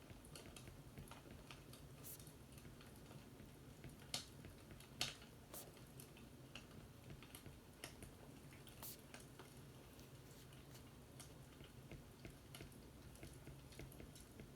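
Faint fireplace crackling: irregular small pops and snaps, two louder ones about four and five seconds in, over a soft low rumble.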